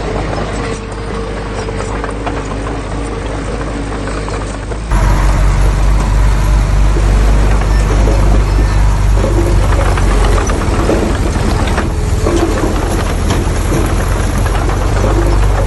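Diesel engine of heavy construction machinery running steadily, with a low rumble. About five seconds in the sound jumps louder and stays so.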